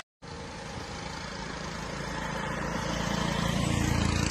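An engine running steadily, growing gradually louder, with a rumbling low drone.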